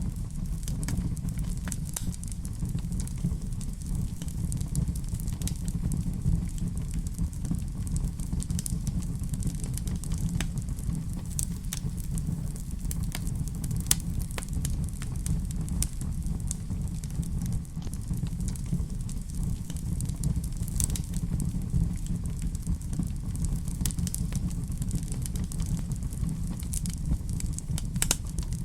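Wood fire burning in a fireplace: a steady low rumble of flames with irregular crackles and pops, one sharper pop about halfway through.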